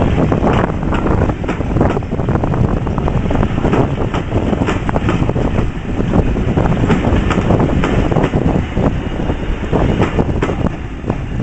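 Class 37 diesel-electric locomotive's English Electric V12 diesel engine working hard as it pulls away, loud and steady, with wind buffeting the microphone.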